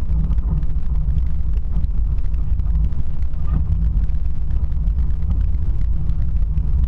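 Steady low rumble of a motor vehicle driving.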